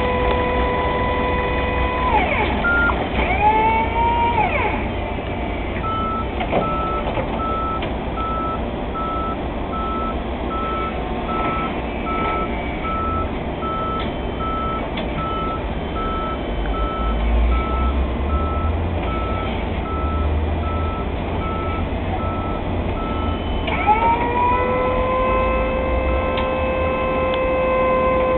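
Yale electric reach truck running: a steady motor whine that cuts off about two seconds in and winds up again near the end, holding to the end, over a low rumble. From about six seconds in, a warning alarm beeps at a steady, regular pace.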